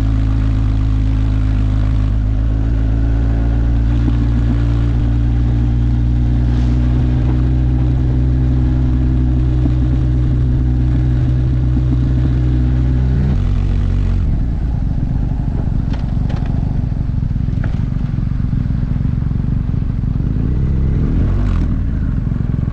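Yamaha TDM900's parallel-twin engine running at a steady, even note, which about two-thirds of the way through gives way to a rougher, lower rumble. A brief rise and fall in engine pitch comes near the end.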